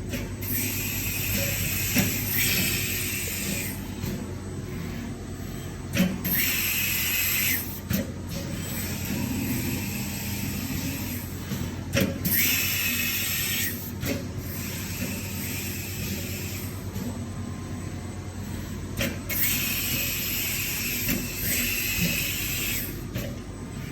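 CNC machine running with a steady low hum, broken by repeated bursts of high hiss lasting a second or more, about four times, and scattered sharp clicks.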